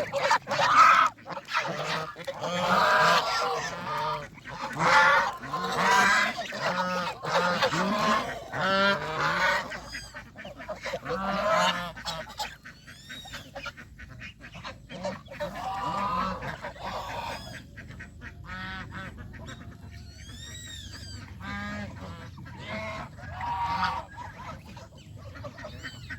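A flock of domestic geese honking, many calls overlapping for the first ten seconds or so, then fewer and fainter calls. Thin high chirps from smaller birds come in now and then in the second half.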